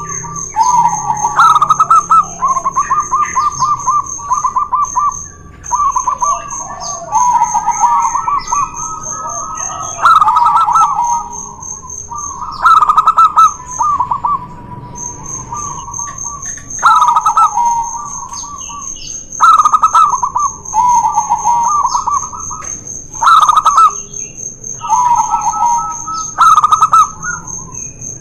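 Zebra doves (perkutut) cooing: two birds trade repeated rapid, rippling coo phrases that overlap one another. Sharp loud chirps break in every few seconds.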